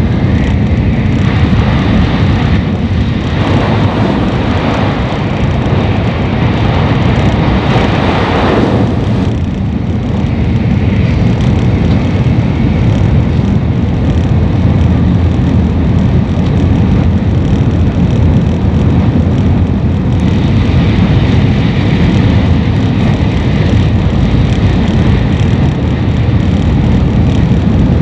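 N700 series Shinkansen running at speed, heard inside the passenger cabin: a steady low rumble and rush. A louder, higher rush swells for several seconds and cuts off about nine seconds in, then returns more gently later on.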